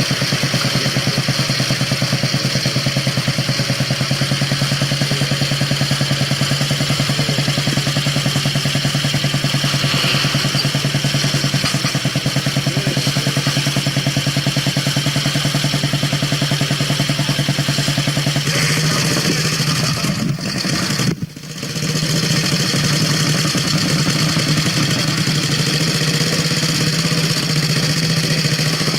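Vintage motorcycle engine running steadily close by, with an even pulsing beat. The sound drops away briefly about two-thirds of the way through, then carries on as before.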